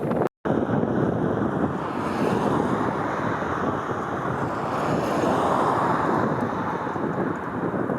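Wind buffeting the camera's microphone, a steady rushing noise, cut off to silence for an instant just after the start.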